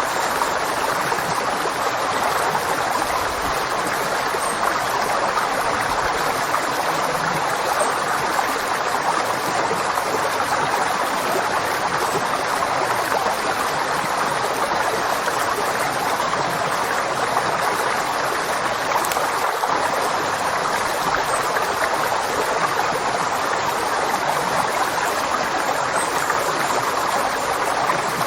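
River water flowing steadily over stones, a continuous even rushing with no change.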